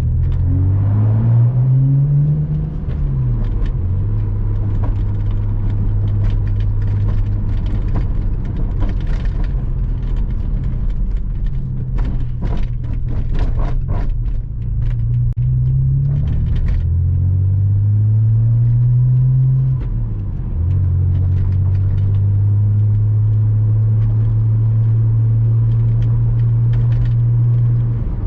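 Porsche Boxster 986 flat-six engine heard from inside the car while driving. Its revs climb and then drop sharply twice, about two and a half seconds in and again near twenty seconds, as at gear changes. Between those it runs at steady cruising revs, with scattered light ticks and knocks from the road.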